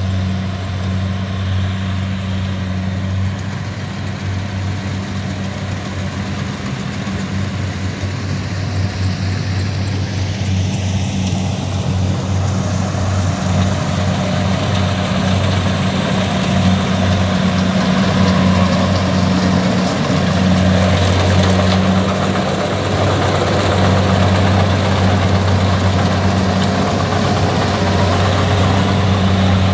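Diesel engine of a tracked rice-harvesting machine running with a steady hum, growing louder and fuller from about twelve seconds in.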